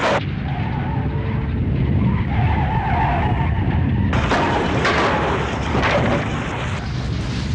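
Earthquake sound effect: a deep, continuous rumble with grinding, scraping noise, which swells into a harsher crashing stretch about four seconds in.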